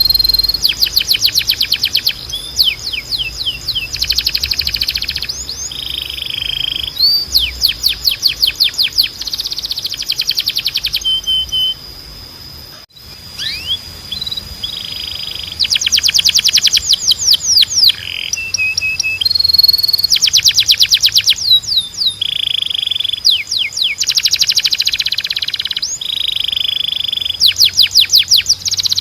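Canary singing: rapid rolling trills, each run of fast repeated notes lasting a second or two, alternating with short pure whistled notes. There is a brief pause about halfway through.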